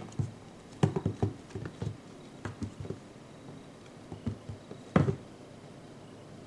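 A kitten's paws pattering and thumping as it pounces on and bats at a pompom toy: an irregular run of soft taps and thuds, with the loudest thump about five seconds in.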